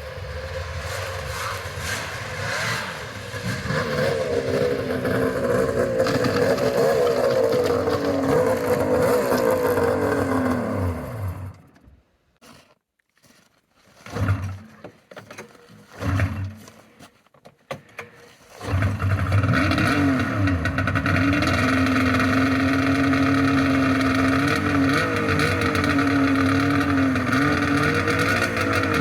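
Polaris Triple XCR 800 snowmobile's three-cylinder two-stroke engine running cold with a wavering, uneven note, then dying out with a falling pitch. After two short bursts of firing, it starts again about 18 seconds in and runs at a steady idle.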